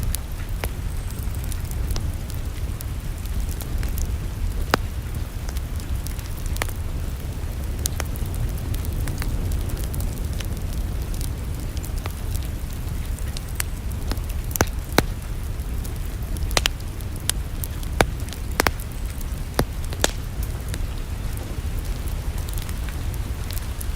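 Wood fire crackling in a fireplace: irregular sharp pops and snaps over a steady low rumble and hiss, with a cluster of louder pops in the second half.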